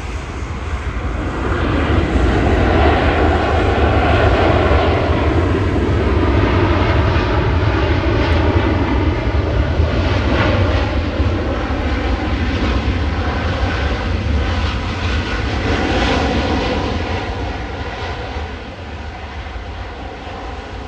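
Jet airliner's engines running as it passes close by: a deep rumble with a steady whine on top that builds about two seconds in, stays loud, and fades near the end.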